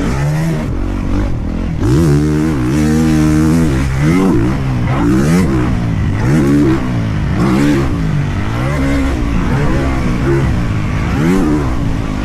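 Motocross dirt bike engine being ridden hard, revving up and dropping back over and over, roughly once a second, with one stretch held high for a couple of seconds.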